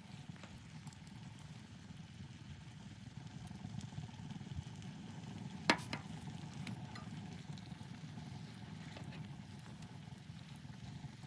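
Wood fire crackling, with scattered small clicks and one sharp pop about halfway through, over a steady low rumble.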